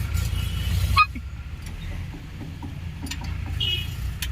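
A hydraulic pipe clamp is being tightened with a spanner on the tractor: a few sharp metallic clicks over a steady low rumble. A louder rushing noise stops abruptly about a second in.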